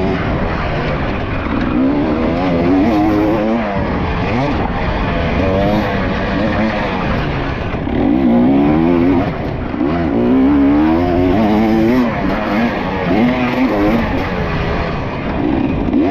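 Dirt bike engine revving up and down again and again as it is ridden, its pitch rising and falling every second or two.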